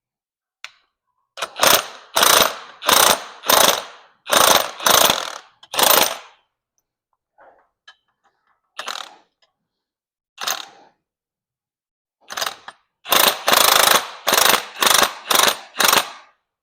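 Hand ratchet wrench clicking in repeated short back-and-forth strokes, running the top nut down onto a rebuilt front strut and spring assembly. There are two quick runs of strokes with a couple of single strokes between them.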